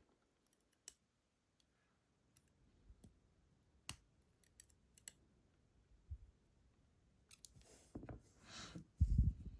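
Scattered small metal clicks and taps from tools working the sliders out of a disassembled ASSA Desmo slider lock. Near the end come a brief rustle of handling and a dull bump.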